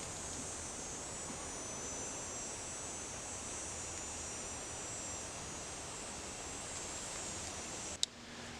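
Steady, high-pitched chorus of insects trilling in the forest over a soft, even background hiss, with a click near the end.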